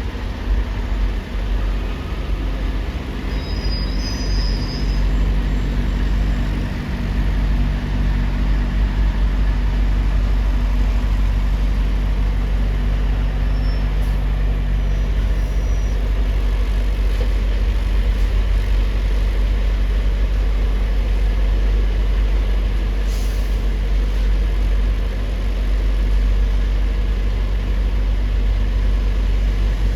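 Steady deep rumble of a heavy engine running, with a few faint high squeaks about four seconds in.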